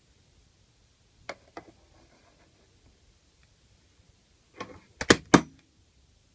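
Light clicks and knocks of hard objects: two soft clicks about a second in, then a quick clatter of three or four sharp knocks near the end.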